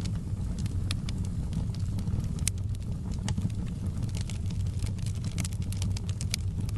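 Fire burning in a fireplace: a steady low rumble with frequent sharp crackles and pops, most crowded past the middle.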